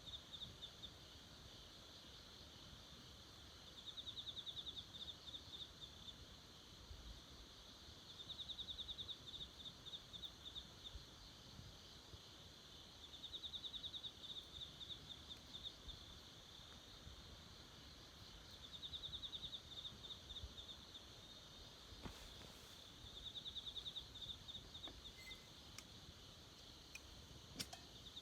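A small animal's high, buzzing trill, each call lasting about a second and a half and repeating every four to five seconds over a faint background hiss. A few faint clicks come near the end.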